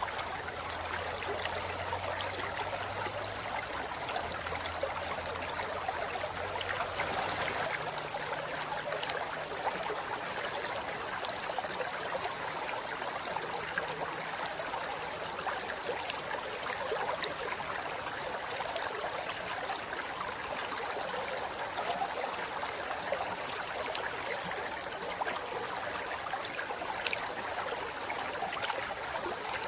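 Forest river flowing over rocks: a steady rush of water with fine splashing and babbling flickering through it.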